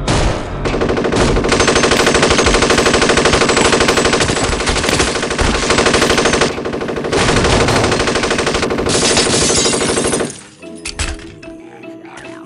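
Tommy gun (Thompson submachine gun with drum magazine) firing long sustained bursts of rapid automatic fire, with a brief lull about six and a half seconds in; the firing stops suddenly about ten seconds in.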